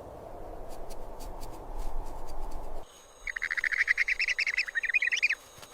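A low rushing background with scattered clicks stops abruptly about three seconds in. A rufous hornero then gives a rapid, high chattering call of many quick notes for about two seconds.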